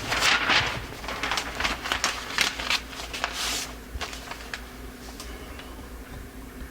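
Bench handling sounds while setting a carburetor float: scattered light clicks and rustling of parts, tool and paper, busiest in the first few seconds and then thinning out over a low steady hum.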